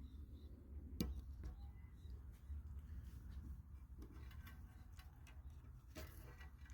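Faint low hum with a few short, sharp clicks scattered through it.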